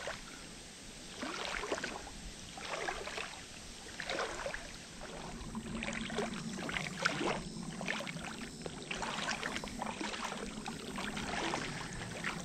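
Someone wading through a shallow creek with a soft sandy bed: water sloshing and splashing around the legs with each stride, about one step a second.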